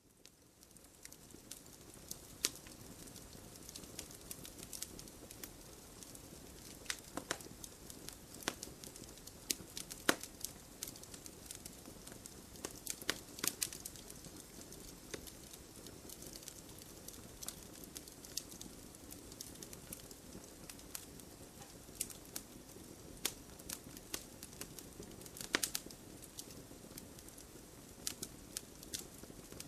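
Wood fire in a fireplace crackling, with irregular sharp pops over a soft steady hiss of burning, a few pops much louder than the rest.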